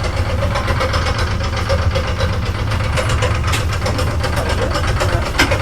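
A vintage transit vehicle's engine idling with a steady low rumble. Two brief sharp clicks sound over it, about three and a half seconds in and near the end.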